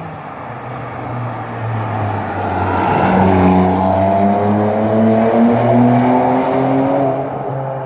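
Ferrari 612 Scaglietti's V12 running through a Quicksilver stainless-steel exhaust, swelling louder over the first few seconds, then pulling up with a steadily rising note before easing off near the end.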